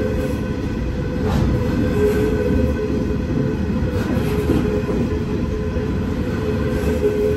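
Freight train of hopper wagons rolling past at speed: a steady heavy rumble of steel wheels on rail, with a held whining tone that comes and goes and a few sharp clicks as the wheels pass over the track.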